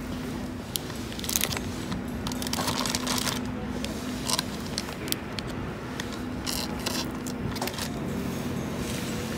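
Light metallic clinks, rattles and scrapes of small camp cookware or coffee gear being handled, with a few short rattling bursts, over a steady low hum.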